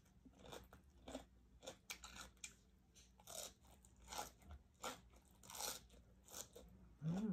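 A person chewing and biting food close to the microphone, with quiet irregular crunching strokes about two or three a second. Near the end comes a brief pitched sound that rises and falls.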